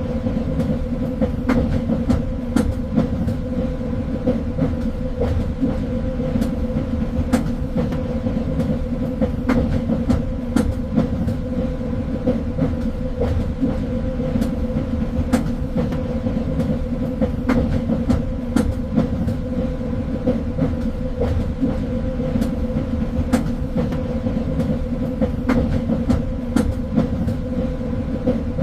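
A train running steadily on rails: a continuous low rumble with a steady hum and irregular sharp clicks of the wheels over the track.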